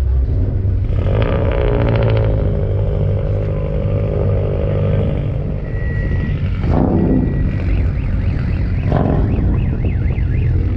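Car engines running at a car meet, with two short, sharp revs about seven and nine seconds in.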